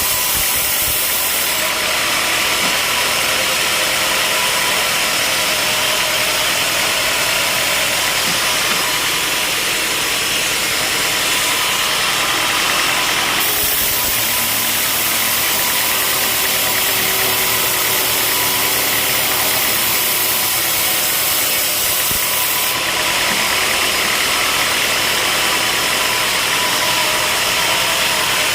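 Sawmill machinery running, with a steady engine hum and noise. The sound changes abruptly three times: near the start, about halfway and about two-thirds through.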